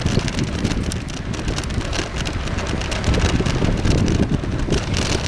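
Wind buffeting the microphone on a moving bicycle, over a dense steady crackle and low rumble from the tyres rolling on a rough dirt path.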